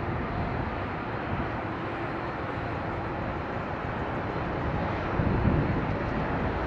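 Jet airliner landing, a steady rushing engine and air noise that swells briefly about five seconds in.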